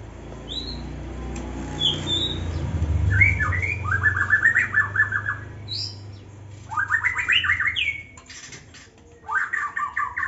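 Young white-rumped shama singing: a couple of short high whistles, then three bursts of fast repeated chattering notes, over a low rumble.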